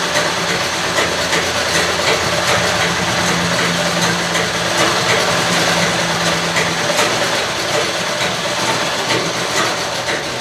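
Treadle (foot-pedal) sewing machine running slowly as it stitches cloth: a steady mechanical clatter of the needle and drive.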